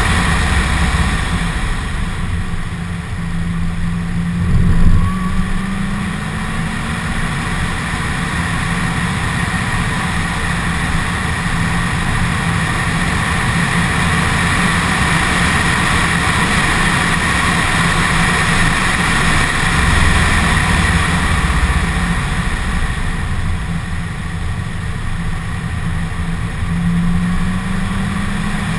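2015 Corvette Z06's supercharged 6.2-litre V8 running hard under load, with a steady supercharger whine over the engine note. The engine pitch climbs with a brief loud peak about five seconds in, and climbs again near the end.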